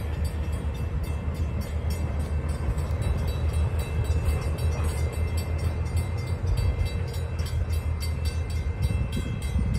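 Passenger train cars and a trailing caboose rolling along the track, a steady low rumble with a quick run of wheel clicks.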